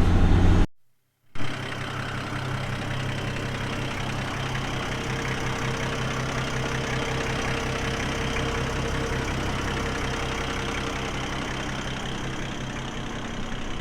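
Steady vehicle engine hum and road noise from inside a moving vehicle's cabin. It is broken by a half-second silence about a second in.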